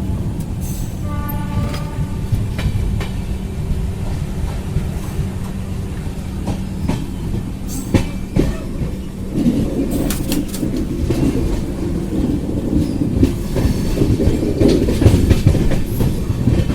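Passenger train running along the track: a steady rumble of the wheels with irregular clickety-clack over the rail joints, getting louder about nine seconds in.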